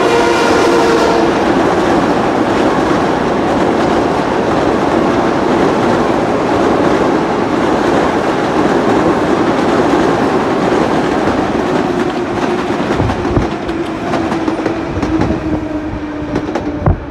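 A train passing close by: the tail of its horn fades in the first second, then the cars go by in a steady loud rush. In the last few seconds the rush thins and the wheels click over the rail joints as the end of the train passes.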